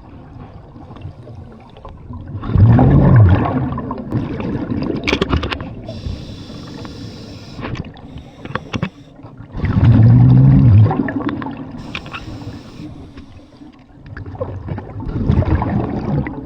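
Scuba diver breathing through a regulator underwater: loud bursts of bubbling exhaust on the out-breath, three times, alternating with a hiss on the in-breath, in a slow steady cycle.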